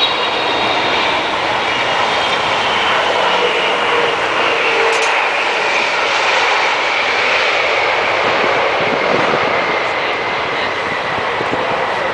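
Boeing 777-300ER's GE90 turbofans on a landing at Heathrow, a loud steady jet roar with a high whine that slowly falls in pitch as the airliner passes.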